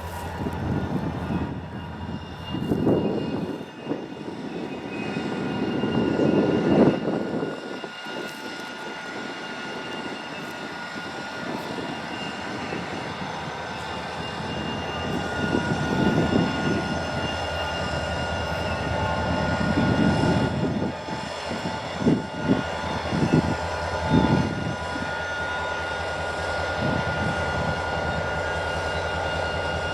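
Small quadcopter drone, a DJI Mavic Mini, running steadily with a whine of several high tones from its propellers. Low rushing swells of wind on the microphone come and go, and a few sharp knocks sound about two-thirds of the way in.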